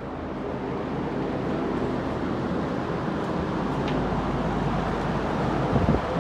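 A motor or engine running steadily, building over the first couple of seconds, with a short knock near the end.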